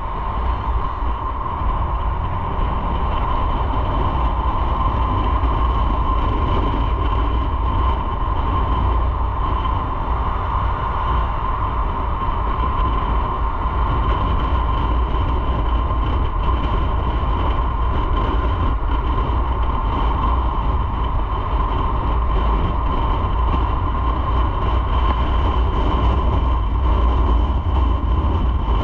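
Motorcycle running at a steady cruising speed: an even engine drone with road and wind noise, no marked revving or shifting.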